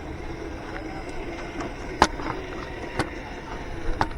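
Radio-controlled crawler truck working over the trail: a faint steady electric-motor whine under wind rumble on the microphone, with three sharp knocks about a second apart, the first the loudest.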